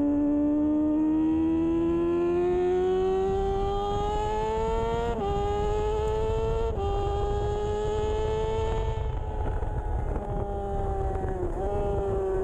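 A 2013 Kawasaki Ninja 636's inline-four engine at racing speed, its pitch climbing under hard acceleration and dropping suddenly with quick upshifts about five and six and a half seconds in. It then holds and eases off, with a brief dip near the end, over steady wind rush.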